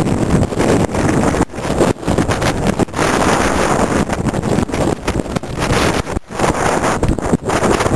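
Storm wind blowing hard across the microphone: a loud, uneven rumble with frequent brief dropouts.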